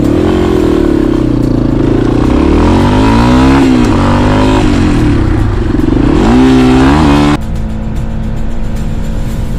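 Motorcycle engine revving up and down, its pitch rising and falling several times as the rider works the throttle and gears. About seven seconds in it cuts off abruptly to a quieter, steady hum.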